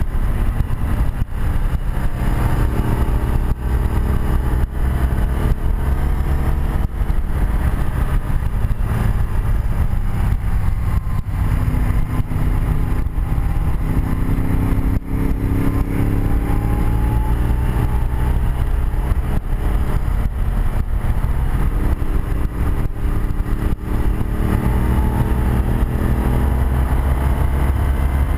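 1984 BMW R100RS air-cooled flat-twin motorcycle engine running under load on a ride, heard from the rider's chest-mounted camera with wind noise. The engine note climbs in pitch twice, around the middle and again near the end, as it pulls through the gears.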